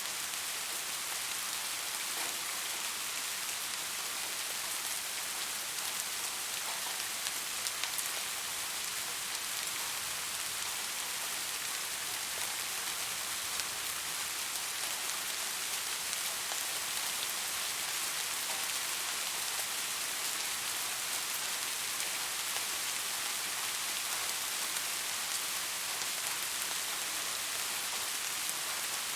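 Steady rain falling, a constant hiss with the tick of single drops landing.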